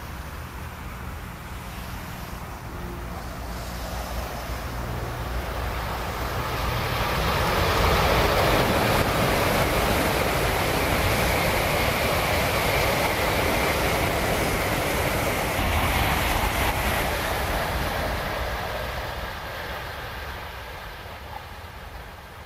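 A Tokaido Shinkansen high-speed train passing by: a rushing running noise that swells over a few seconds, stays loud for about ten seconds, then fades away.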